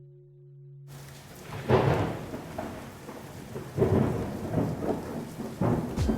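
Rain falling with rolling thunder, starting about a second in; the rumbles swell three times, the loudest near the start. A singing bowl's lingering hum dies away as the rain comes in.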